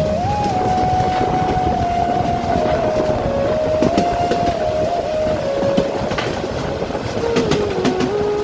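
Harz narrow-gauge train running along the track: a steady rumble with scattered clicks from the wheels, and a single tone that wavers up and down in pitch and dips lower near the end.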